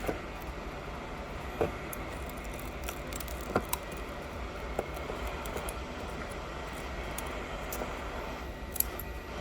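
Hot-air rework station's heat gun blowing a steady rush of air, with a few sharp clicks as the cracked back glass is worked.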